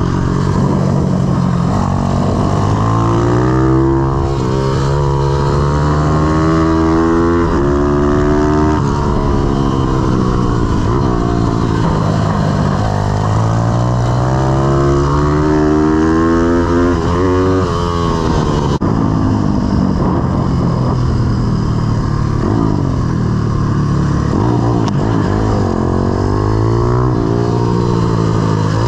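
Single-cylinder four-stroke pit bike engine running hard, its pitch rising again and again under acceleration and dropping off between the pulls.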